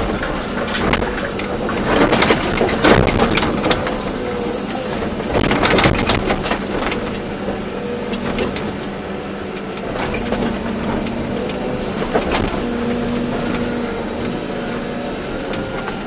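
Volvo EC240B excavator working: its diesel engine and hydraulics run steadily, with several knocks and rattles.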